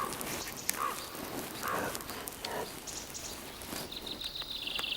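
Forest ambience: scattered rustling and crackling, with a small bird trilling near the end.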